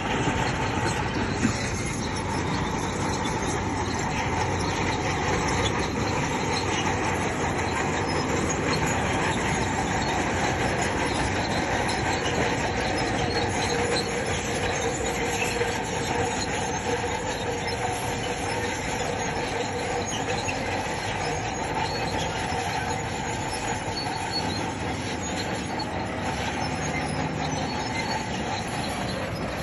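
Crawler bulldozer working, its diesel engine running steadily while the steel tracks squeal and clank.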